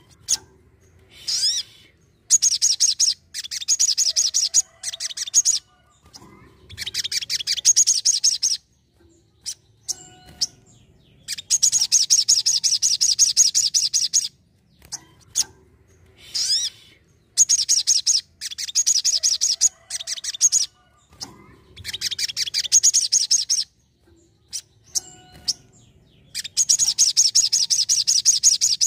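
Sogon sunbird singing loud, high, rapid trilling phrases of quick chattering notes, each burst lasting one to three seconds, with short pauses between them.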